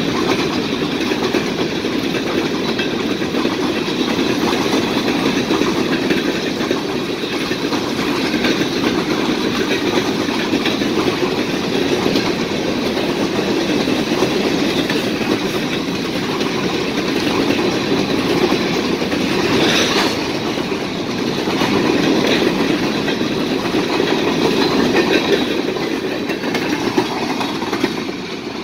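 Empty covered hopper cars of a freight train rolling past, steel wheels clattering over the rails in a steady heavy rumble that eases a little near the end as the last cars pass.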